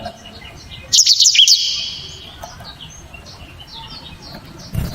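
Blackthroat (black-throated canary) singing: soft scattered high chirps, broken about a second in by a loud, rapid burst of sharp, falling whistled notes that trails off into a fading high note. A brief low thump comes near the end.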